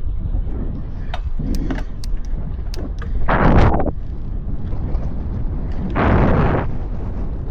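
Road bike ride with wind rumbling steadily on the microphone. A few sharp clicks come early, and two louder rushing bursts arrive about three and six seconds in.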